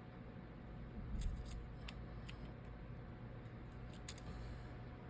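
Scattered light clicks and taps from small phone parts and a tool being handled while a Samsung Galaxy A12 is reassembled, over a steady low hum.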